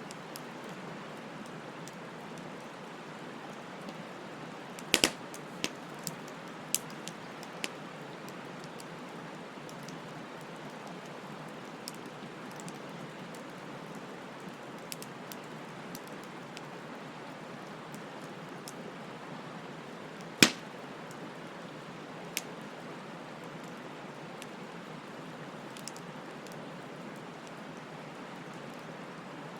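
Wood campfire burning with a steady hiss, crackling with sharp pops: a quick cluster about five seconds in and one loud snap about twenty seconds in.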